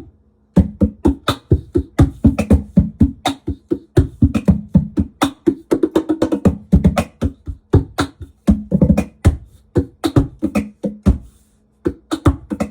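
Laptop cajon struck rapidly by hand, several hits a second, through a Digitech BP355 multi-effects pedal that gives each hit a pitched, swept ring. The playing breaks off about 11 seconds in, with a few more hits near the end, over a faint steady hum.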